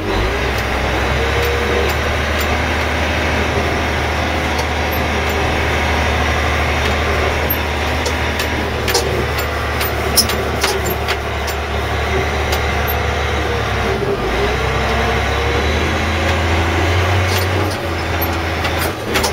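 Caterpillar 980G wheel loader's diesel engine running steadily while the loader drives forward in second gear, with a whine that rises and falls. A few sharp clicks come around the middle.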